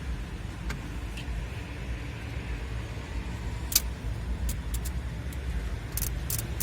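Low, steady rumble of a motor vehicle, with scattered sharp clicks on top: a loud one about four seconds in and several more in quick succession near the end.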